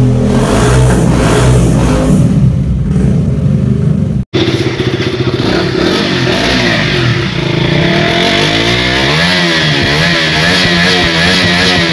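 A Hyosung Aquila Pro cruiser's V-twin engine idling steadily. After a sudden cut, a KTM RC sport bike's single-cylinder engine runs and is revved up and down several times in the second half.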